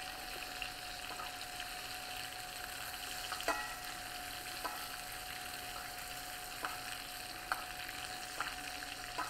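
Chicken thighs searing in a hot pan of oil and butter with fresh herbs: a steady sizzle with crackling, broken by a few short sharp ticks.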